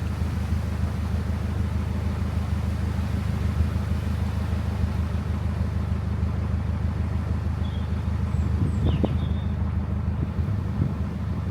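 Narrowboat engine running steadily at low revs, with a few faint high chirps about eight to nine seconds in.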